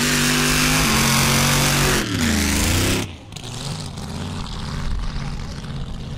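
V8 car engine revved and held at high revs, its pitch stepping down slightly about a second in, dipping and climbing again about two seconds in, then cutting off abruptly about three seconds in. A quieter, lower engine rumble follows.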